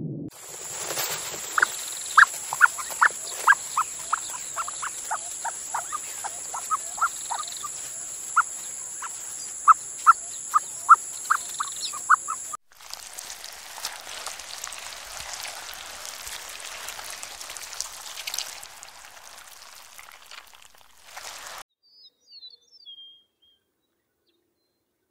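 Outdoor animal sounds: a run of short, sharp calls, two or three a second, over a steady high-pitched whine, cut off suddenly about halfway. An even hiss follows and fades out, leaving near silence broken by a few faint chirps.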